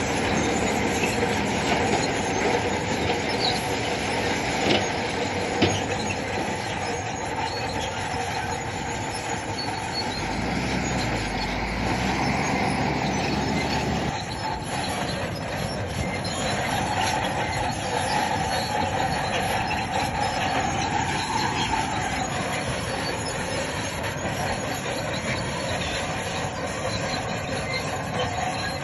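Crawler bulldozer working, its steel tracks squealing and clanking over the engine's running, with a couple of sharp knocks about five seconds in.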